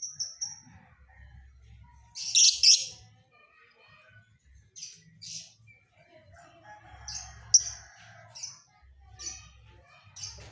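Panda canary singing: a fast trill of evenly repeated high notes at the start, a loud noisy burst about two seconds in, then short high chirps spaced a second or so apart.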